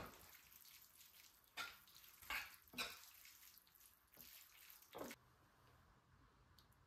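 Faint running water with a few short drips or splashes, four of them sharper than the rest; the water stops about five seconds in.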